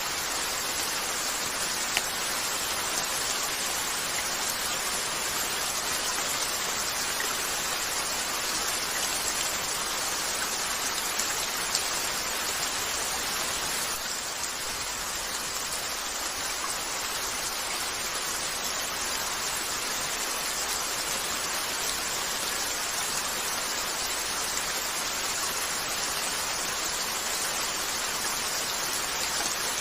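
Steady rain falling on a window, an even hiss with a few faint sharp ticks here and there.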